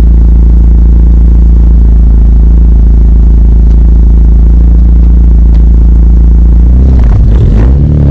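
Toyota MR2 Turbo's 3S-GTE four-cylinder engine running loud through the exhaust at a steady speed, its revs shifting up and down near the end. The uploader says a misfire can be heard, caused by a small crack in the block at cylinder 3.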